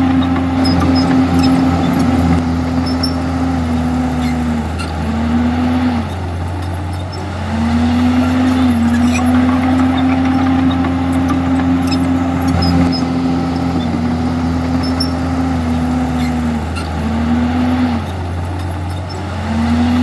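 Komatsu D51EX bulldozer's diesel engine running hard, its pitch sagging and picking back up several times as the load on it changes while pushing.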